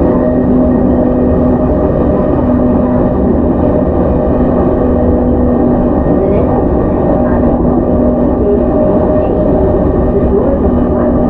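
Onboard running sound in a JR East E231 series commuter train's motor car cruising at steady speed: continuous wheel-on-rail rumble with a steady hum from the running gear.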